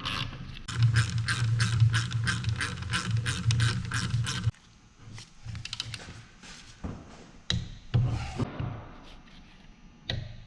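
A ratchet wrench clicking rapidly and evenly, about five clicks a second, as the differential's bearing cap bolts are run down. It stops abruptly about four and a half seconds in, and a few scattered light knocks follow.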